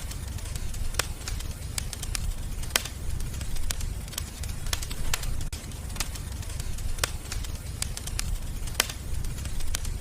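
Wood fire crackling: irregular sharp pops and snaps, about one or two a second, over a steady low rumble of the flames.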